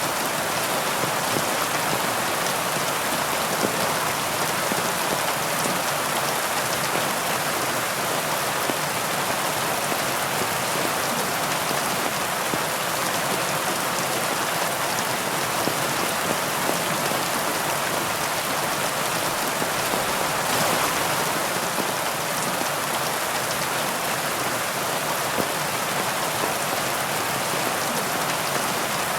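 Heavy rain falling steadily, a dense even hiss with scattered drop patters, swelling slightly about twenty seconds in.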